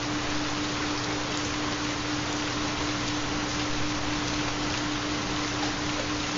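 Steady recorded rainfall, an even hiss with scattered drop ticks, under one constant low steady tone: the carrier of a 4 Hz theta binaural beat.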